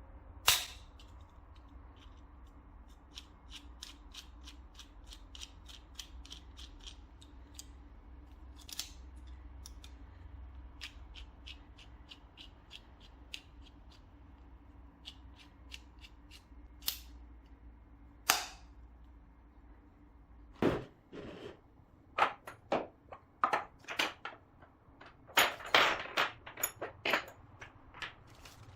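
Sharp clicks and knocks from handling the parts of a Kreg K4 pocket-hole jig kit: scattered ticks with a few loud knocks at first, then a quick run of knocks and clicks in the last third. A low hum underneath stops about two-thirds of the way through.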